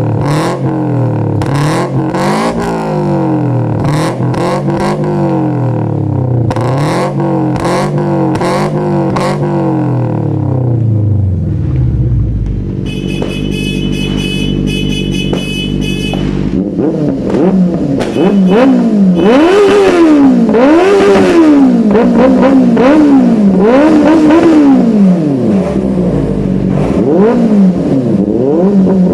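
Four-cylinder engine on an aftermarket exhaust revved in repeated blips, its pitch rising and falling. Around the middle it settles to a steady idle, then it is revved again, louder and sharper.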